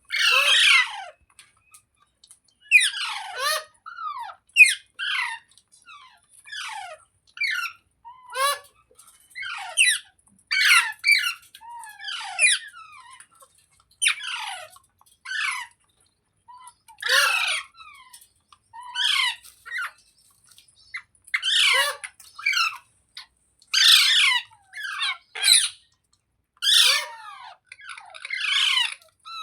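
Rose-ringed parakeet (Indian ringneck) giving a long run of short, harsh squawks that drop in pitch, one every second or two.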